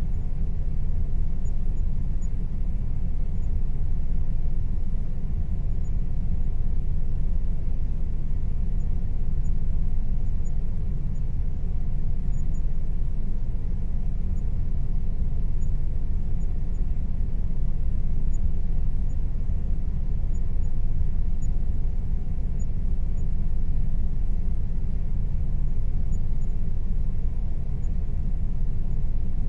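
Air conditioner running with a steady low rumble and a faint steady hum over it.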